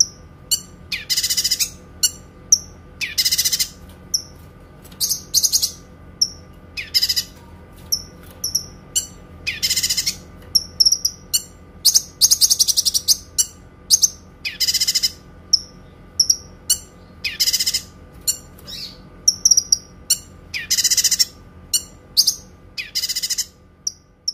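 Kinoi songbird singing in long, clear rapid trills of high notes, each about half a second to a second long and coming roughly every two seconds, with short single chirps in between. A faint steady hum runs underneath.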